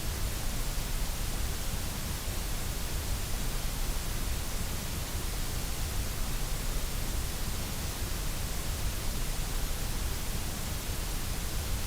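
Steady, unchanging synthetic noise, the hiss of white noise played as a sleep and relaxation aid.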